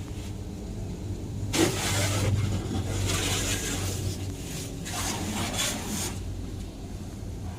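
Car-wash spray hissing against the car in two long bursts, the second shorter and starting about five seconds in, over a steady low hum of the wash machinery.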